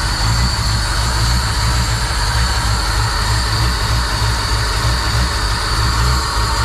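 Chevrolet small-block 350 V8 in a C10 pickup idling steadily through its old 2-inch exhaust with knockoff mufflers. It is a low, even rumble from an engine still warming up after a cold start on its new EFI.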